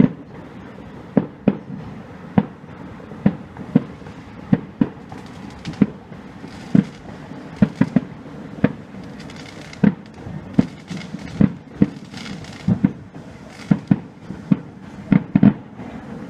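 Fireworks display: a rapid, irregular run of sharp bangs from shells bursting, about one or two a second, with a hissing crackle in the middle stretch.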